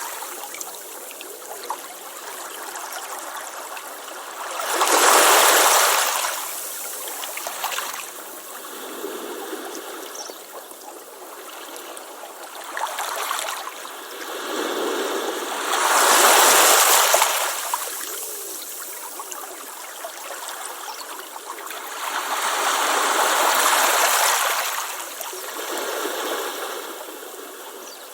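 Ocean waves breaking on a beach: three large waves surge up and wash in several seconds apart, with smaller washes and a steady hiss of water between them.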